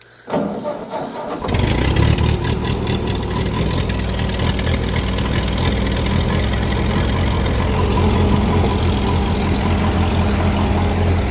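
Ford 2N tractor's four-cylinder flathead engine cranked briefly by the starter, catching about a second and a half in and then running steadily and loudly.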